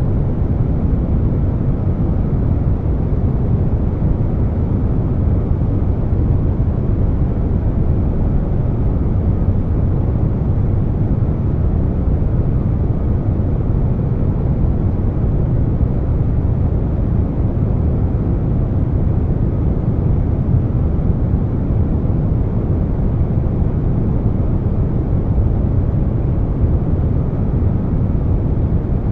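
Air conditioner noise blended with brown noise: a steady, deep rushing hiss, heaviest in the low end, with no changes or interruptions.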